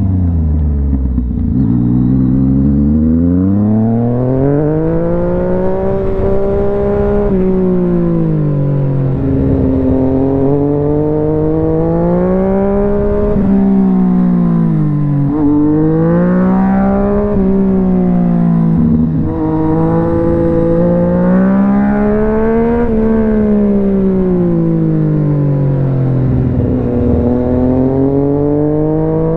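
Yamaha MT-09's three-cylinder engine revving up and dropping back again and again, its pitch rising and falling every few seconds.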